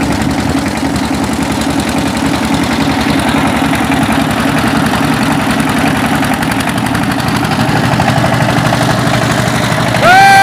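An engine running steadily with an even pulse. Just before the end a horn sounds, louder than the engine.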